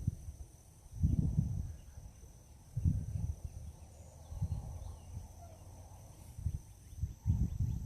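Gusts of wind buffeting the microphone in low rumbling surges about a second in, around three seconds, and near the end. Over them, a steady high-pitched insect trill.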